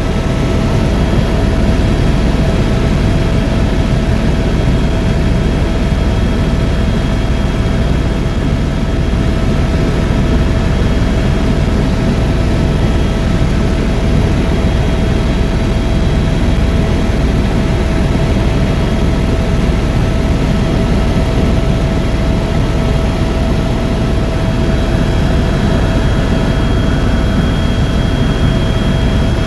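Tour helicopter in cruise, heard from inside the cabin: a loud, steady rumble of rotor and engine with a constant high whine.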